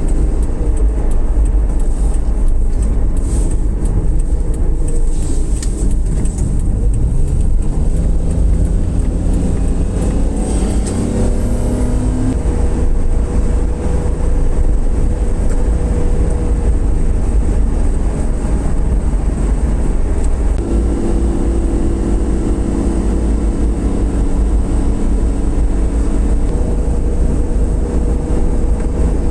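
Steady low rumble of a motor vehicle running, with the engine's pitch rising for a few seconds, as when it accelerates.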